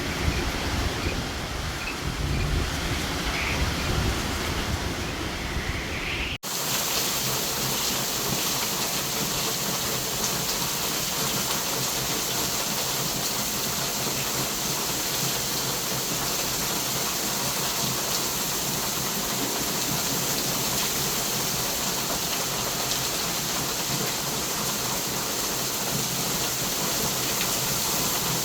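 Hurricane wind rumbling in gusts on the microphone, then, after a sudden cut about six seconds in, a steady hiss of heavy hurricane rain.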